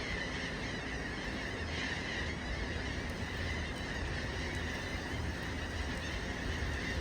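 A flock of birds calling all at once, their many calls merging into one steady, unbroken din.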